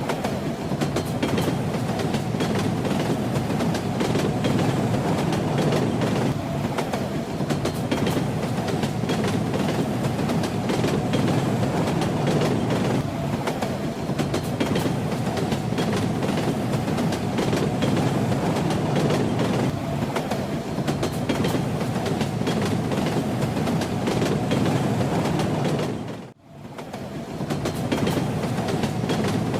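Train running on the rails: a steady rumble with the wheels clicking and rattling over the track. About 26 seconds in, the sound briefly fades out and comes back.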